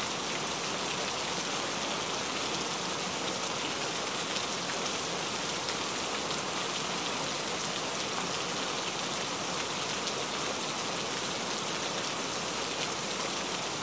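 Heavy rain falling steadily, an even hiss of drops with no music or thunder over it.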